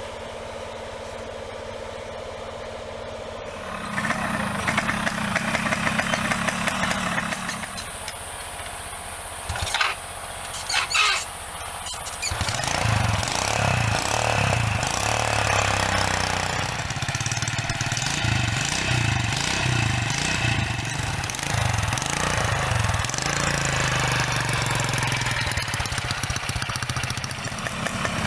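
A vehicle engine running, becoming louder and pulsing unevenly from about twelve seconds in, with two short sharp noises a little before that.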